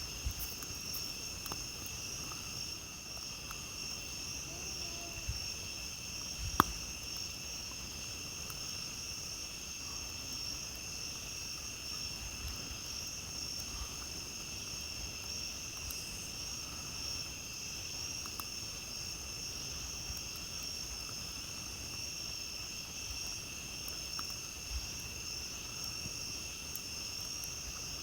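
Steady chorus of night insects such as crickets, trilling on several high pitches without a break. Scattered soft crackles of a campfire, with one sharp pop about six and a half seconds in.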